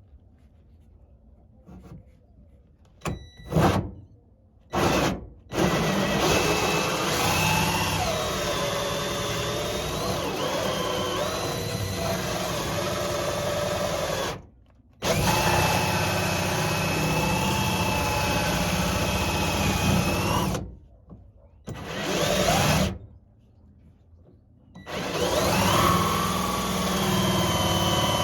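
Power drill boring a hole, run in several stretches of a few seconds with short stops between. Its whine wavers up and down with the load.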